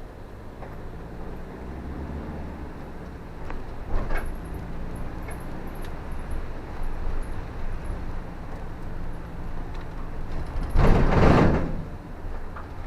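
Car driving in the rain: a steady low engine and road hum with a few light clicks. About eleven seconds in comes a loud rushing whoosh lasting about a second.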